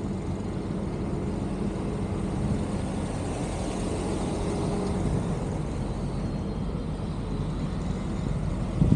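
A motor vehicle running: a steady low rumble with a faint hum.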